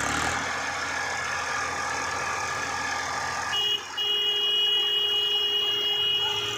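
Tractor engine running steadily. About three and a half seconds in, a steady high-pitched tone joins it, drops out for a moment, then holds on over the engine.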